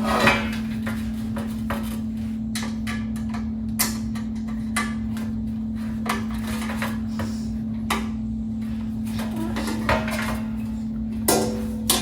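Scattered clicks and knocks of a screwdriver and hand tools working on a box fan's motor mounting and housing, a few sharp taps a second or more apart, over a steady low hum.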